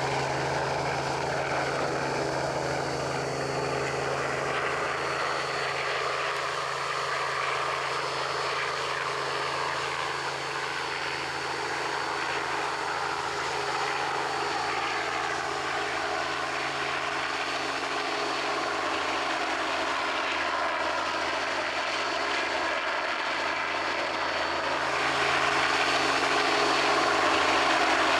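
Robinson R44 Raven II helicopter in flight: its rotor and piston engine run steadily. One tone slowly falls in pitch through the first half, and the sound grows louder near the end.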